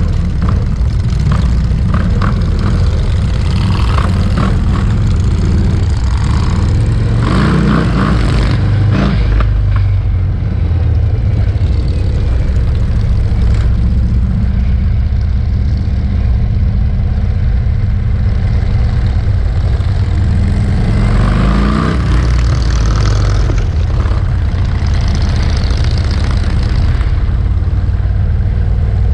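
Many motorcycle engines running in a loud, steady rumble, with a bike revving up twice, about a quarter and three quarters of the way through.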